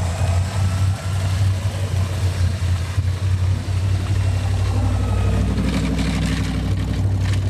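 Jeep Cherokee's carbureted engine running steadily with a deep drone. A higher note joins in about five seconds in as the engine works harder.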